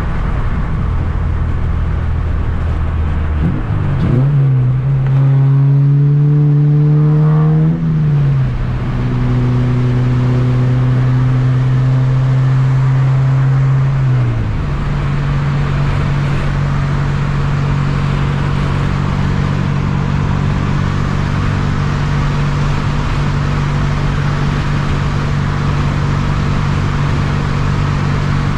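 2007 Honda Civic Si's four-cylinder engine under way: the revs jump about four seconds in and it pulls harder for a few seconds, then drop at a gear change about eight seconds in. The revs change once more around fourteen seconds in, and the engine then runs steadily under a constant rush of road noise.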